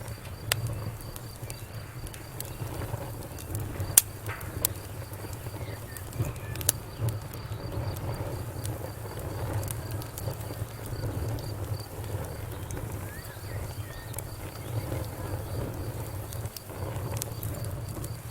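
Wood fire crackling, with sharp pops scattered through it, the loudest about four seconds in, over a low steady rumble of burning. A faint, even chirping, like crickets, runs in the background.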